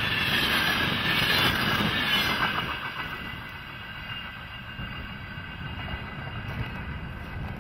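Container wagons of a freight train rolling past close by, their wheels loud on the rails, until the last wagon clears about two and a half seconds in. The sound then drops to a quieter low rumble as the train moves away.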